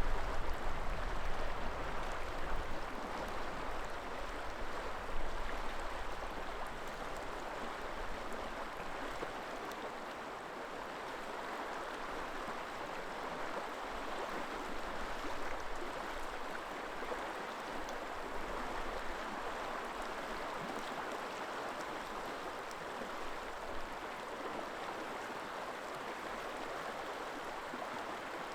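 River water flowing steadily, an even rushing. A low rumble, typical of wind on the microphone, is heavy in the first few seconds and dies away by about a third of the way in.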